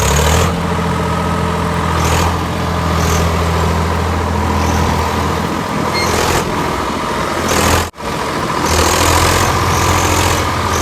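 Heavy diesel engine running steadily, with several short bursts of hissing over it. The sound drops out abruptly near 8 seconds in, then the engine resumes.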